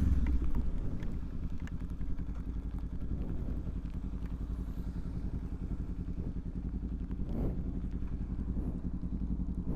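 Motorcycle engine running steadily at low revs, a fast even pulse that eases slightly in the first couple of seconds and then holds.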